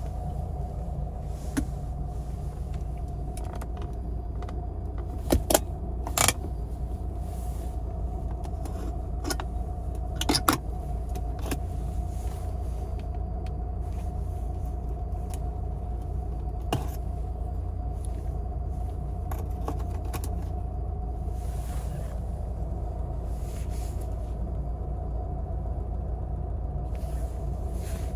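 Steady low rumble of the Lada Niva's 1.7-litre four-cylinder petrol engine idling, heard inside the cabin. A few sharp clicks and knocks from interior parts being handled, most of them between about five and eleven seconds in.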